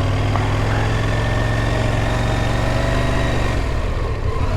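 Motorcycle engine running steadily while riding; about three and a half seconds in, its low note drops away.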